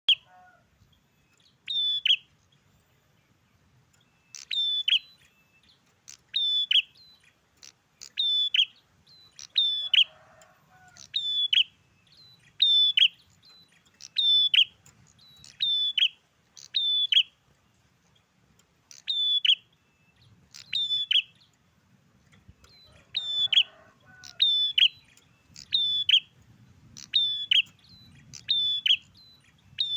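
A prinia singing: a short, sharp, high phrase repeated about every one to two seconds, with a few brief pauses.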